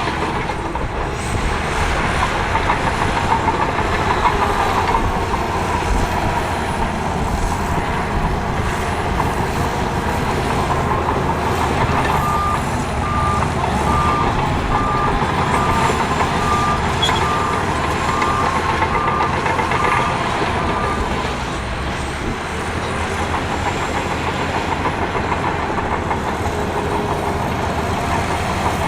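Heavy earthmoving machinery running steadily, a diesel engine working under load. A third of the way in, a reversing alarm sounds a steady series of beeps, about one and a half a second, for roughly nine seconds.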